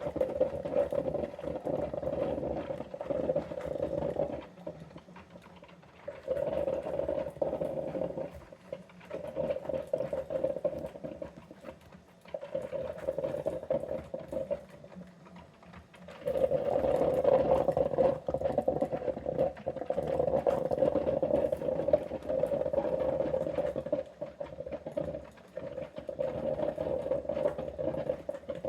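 OXO drip coffee maker brewing plain water: a steady buzzing hum that cuts in and out in spells of about two to eight seconds, with crackling gurgles throughout.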